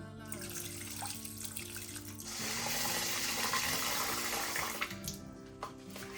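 Water running from a tap into a sink for about two and a half seconds, starting a little over two seconds in, over background music.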